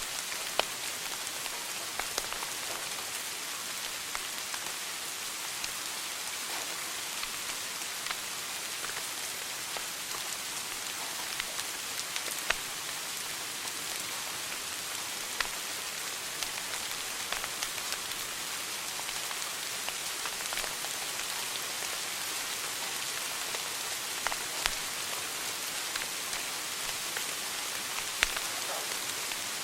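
Wood fire burning in a fireplace: a steady crackling hiss with scattered sharp pops every few seconds.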